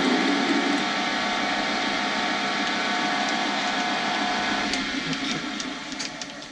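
Lathe running with its motor whine and the spinning blank after a facing cut. The sound fades away from about five seconds in, with a few light clicks.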